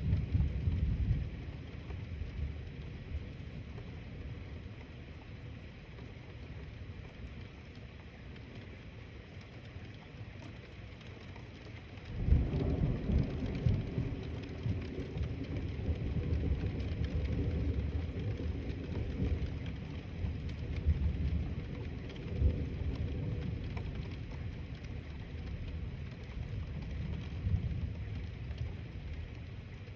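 Steady rain falling, with a rumble of thunder that comes in suddenly about twelve seconds in and fades out after roughly ten seconds.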